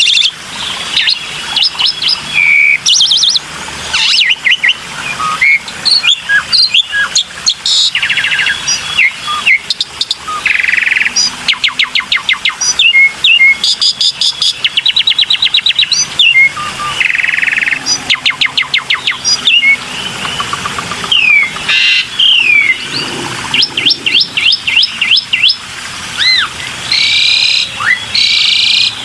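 Black-winged myna (jalak putih) singing a long, varied song of fast trills, whistled up- and down-slurs and harsh chattering notes, with hardly a pause.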